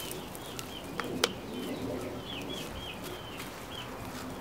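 Small birds chirping in short repeated chirps over a steady low background, with two sharp clicks about a second in as plastic drip tubing is forced onto an elbow fitting.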